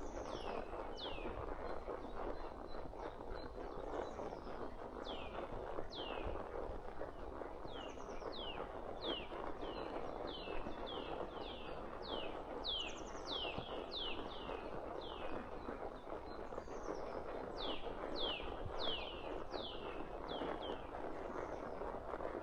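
Bird calling over and over with short whistles that slide down in pitch, several a second at times, over a steady outdoor rustle.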